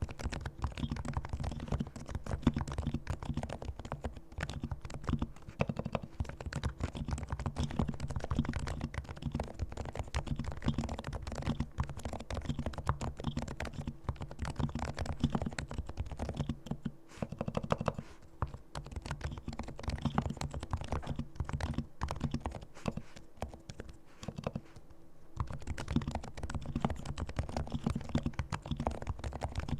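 Continuous fast typing on a silent-switch Realforce R2 keyboard with Topre electrostatic capacitive switches, fully lubricated. The keystrokes are dense and low-pitched, with short lulls about seventeen and twenty-five seconds in.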